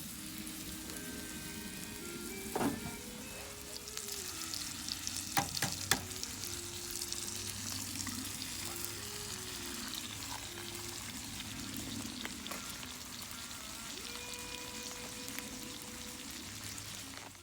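Food sizzling as it fries in a pan, a steady crackling hiss with a few sharp pops, under a quiet background music melody.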